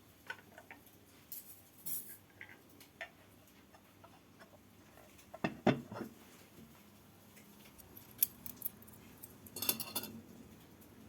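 Cutlery and dishes clinking and knocking in scattered taps, with a louder knock about halfway and a short run of clatter near the end.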